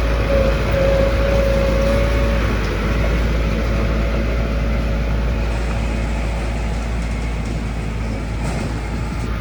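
Heavy diesel construction machinery running with a deep, steady rumble, and a steady whine over the first two seconds that then fades.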